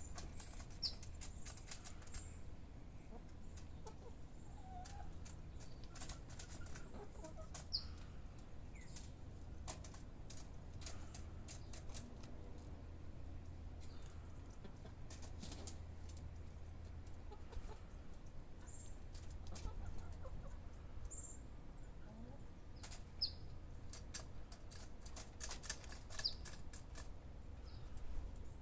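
Garden birds flitting about: wing flaps and scattered clicks, and several short, high, downward-sliding chirps, with backyard chickens clucking. A low steady hum lies underneath.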